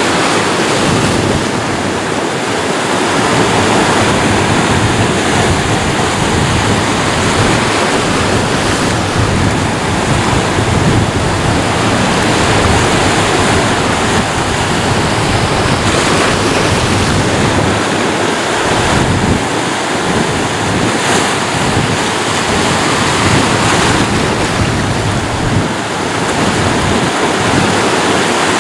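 Ocean waves breaking and washing on a shore, a continuous loud rush of surf that swells and eases gently.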